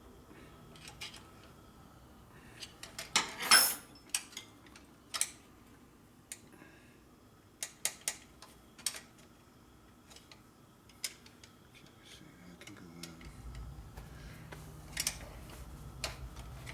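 Scattered metal clicks and taps of a screwdriver working a part into place on a motorcycle, with one louder scrape about three and a half seconds in. A low steady hum starts about three-quarters of the way through.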